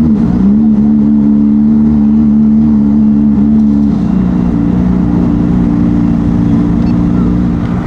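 Boat engines running steadily at low speed, a loud hum of several overlapping engine tones; one of the tones drops away about four seconds in.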